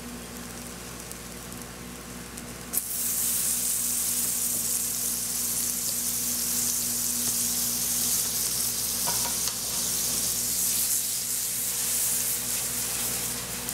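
Butter sizzling in a frying pan around slices of egg-soaked French toast. The sizzle is soft at first, then jumps up suddenly after a sharp click about three seconds in and stays loud and steady.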